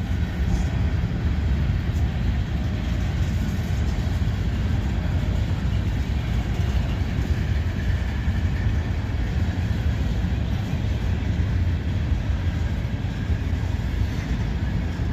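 Freight train's cars rolling past at track speed: a steady rumble of steel wheels on the rails.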